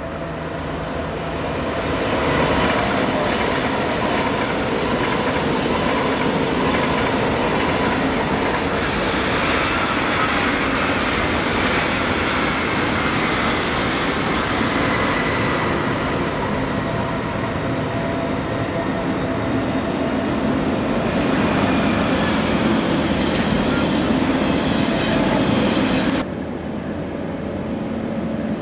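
Electric passenger trains running past on a main line: a steady rush of wheels on rail, with a faint high tone sliding down slightly partway through. Near the end the sound drops suddenly to a quieter train rumble.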